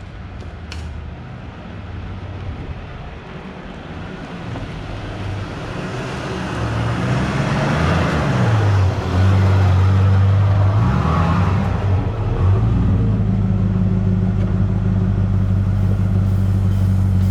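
Car engine running, growing louder; it is revved up and down twice around the middle, then settles into a steady low drone.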